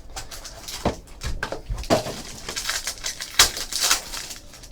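Trading card packaging being opened and handled: rustling and crinkling with small clicks and taps. The sharpest bursts come about two seconds in and again around three and a half seconds in.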